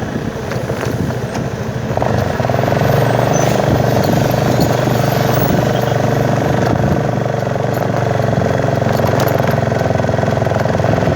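Motorcycle engine running steadily while riding, a little quieter for the first two seconds before it picks up again.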